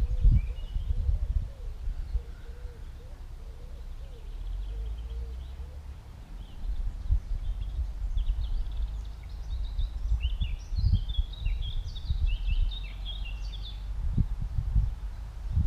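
Wind buffeting the microphone in gusts, under small birds chirping and twittering, busiest from about halfway through until near the end.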